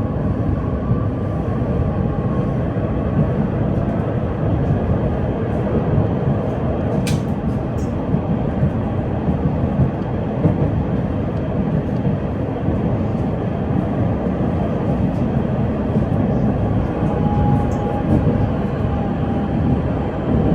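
PKTS 71-931M Vityaz-M low-floor tram running at speed between stops, heard from inside the passenger cabin: a steady rumble of wheels on rails and running gear, with a single sharp click about 7 seconds in.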